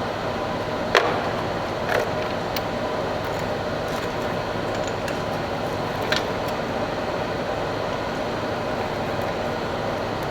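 Steady background hum with three sharp knocks, like tools or metal parts set down, about one, two and six seconds in.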